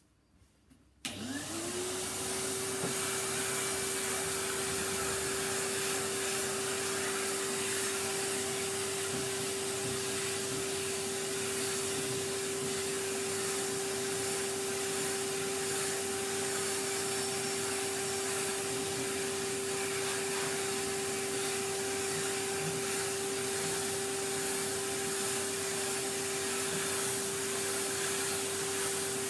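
Vacuum cleaner switched on about a second in, its motor spinning up with a quickly rising tone that settles into a steady pitch, then running steadily with an even rush of air.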